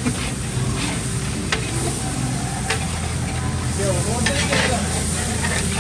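Chicken pieces sizzling in hot oil in a large aluminium cooking pot over a wood fire, while a metal ladle stirs them, scraping and knocking against the pot a few times.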